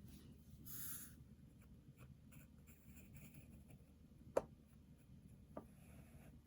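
Faint scratching of a graphite pencil drawing on paper, with a short stroke about a second in and lighter strokes after it. Two sharp taps come later, the first the loudest sound.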